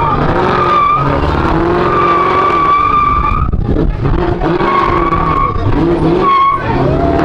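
Car tyres squealing as they spin against the pavement, with the engine running hard underneath. The squeal holds one pitch, drops out about three and a half seconds in, and comes back a second later.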